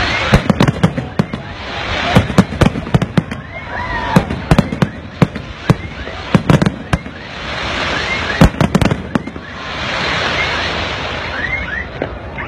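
Aerial fireworks bursting in rapid volleys of sharp bangs and crackles, with a rushing noise that swells and fades between volleys every few seconds.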